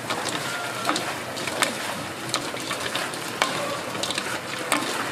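Frying chicken for dak gangjeong: a steady hiss with irregular sharp clacks of metal utensils.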